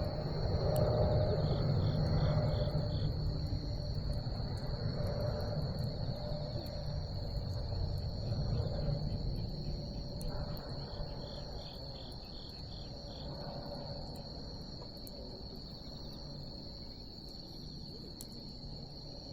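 Night insects trilling steadily at one high pitch, with rapid pulsed chirps from another insect twice, over a low rumble that fades during the first half. Faint sharp crackles from the burning wood come now and then.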